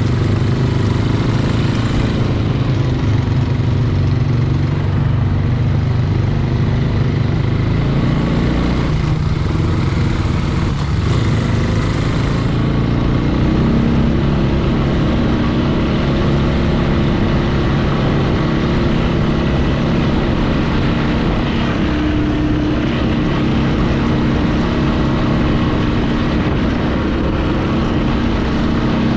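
Four-wheeler (ATV) engine running steadily as it rides along a trail, its engine note shifting about halfway through.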